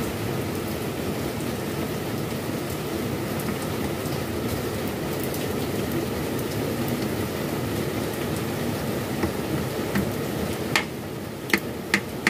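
Steady rain falling, with a few sharp metallic clicks near the end as the balancer shaft housing is handled and fitted up against the engine by hand.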